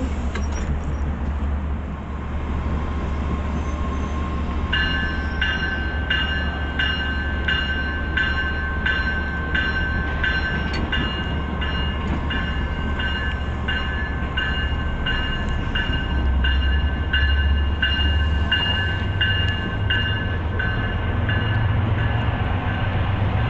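MBTA Commuter Rail diesel locomotive running with a steady low rumble; about five seconds in its bell starts ringing, about two strikes a second, and keeps on almost to the end. Past the middle the engine note grows louder and rises as it throttles up, typical of the train pulling out after the last call.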